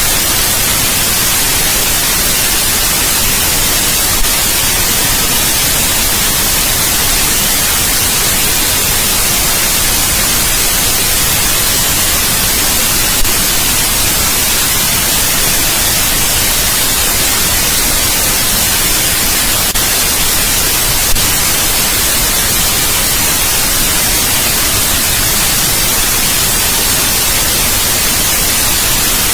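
Steady synthetic white noise: an even, unchanging hiss, strongest in the treble.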